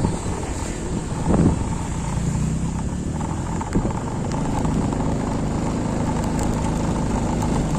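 A motor vehicle engine running low and steady, with a couple of brief knocks in the first few seconds.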